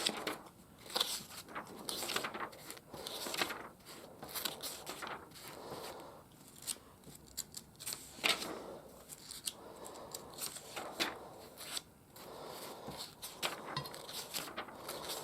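Pages of a paperback comic book being turned one after another: irregular swishes and crinkles of paper every second or two.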